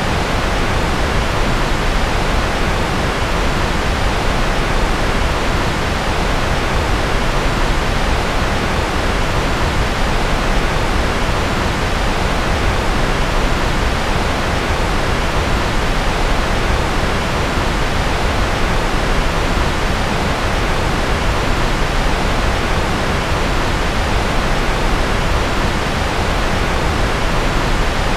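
Continuous white noise track: an even, steady hiss with no changes, fuller in the lows and softer in the highs.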